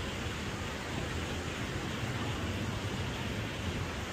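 Wind rushing over the microphone of a moving bicycle: a steady hiss with a fluttering low rumble.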